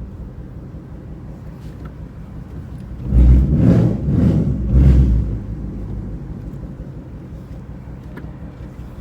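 Ford Mustang 5.0 V8 with a loud exhaust running at a low steady rumble; about three seconds in it accelerates hard in three quick surges over about two seconds, then settles back to a steady rumble.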